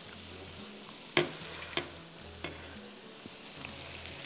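Oil sizzling steadily in a cooking pot on the stove, with a few sharp knocks of a utensil against the pot, the loudest about a second in.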